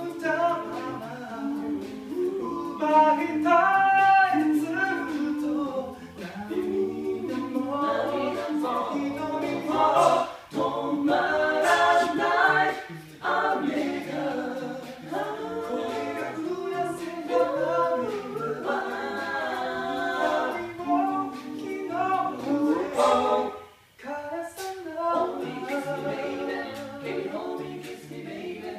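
An a cappella vocal group sings in close harmony over a sung bass line, with no instruments. The singing breaks off briefly a little over twenty seconds in, then resumes.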